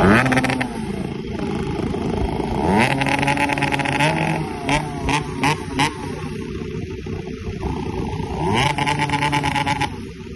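Yamaha RX-King two-stroke single-cylinder motorcycle engine revved through a bored-out Padang-style exhaust (knalpot bobokan) with a glass-wool-packed baffle. A rev falls away at the start, a longer rev comes about three seconds in, then four quick throttle blips, and another rev near the end, with the engine idling in between.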